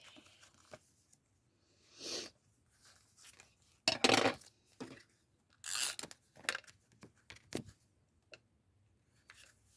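Paper being handled and torn: several short rustling, tearing noises, the longest and loudest about four seconds in.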